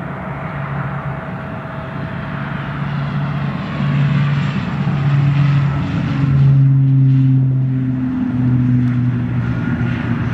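Dornier 328 regional airliner passing close by, its engines a loud drone with strong low humming tones over a wide rushing hiss. It grows louder to a peak about two-thirds of the way through, and the low tones drop slightly in pitch as it goes by.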